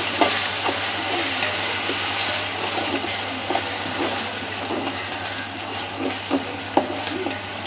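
Onions and tomatoes frying in hot oil in a pot, a steady sizzle with short soft scrapes and taps of the stirring spoon.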